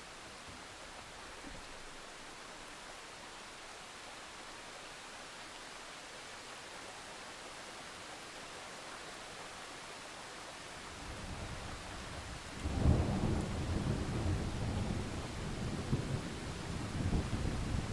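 Thunderstorm: steady rain hiss, then about eleven seconds in a low thunder rumble builds, breaks into a sharp loud clap a couple of seconds later, and goes on rolling in swells.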